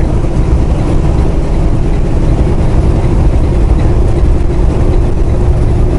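Steady drone of a semi truck's diesel engine and road noise heard inside the cab while cruising on the highway.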